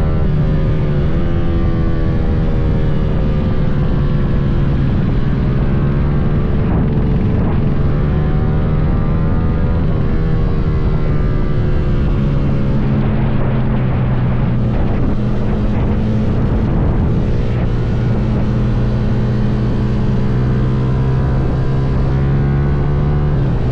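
Motorcycle engine running under way, its pitch sliding slowly down and back up several times as the throttle eases off and opens again.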